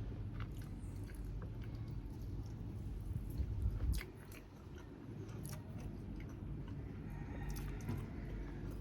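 Close-up chewing and biting of Thai grilled chicken, with scattered small clicks and crunches, over a steady low rumble that drops about four seconds in.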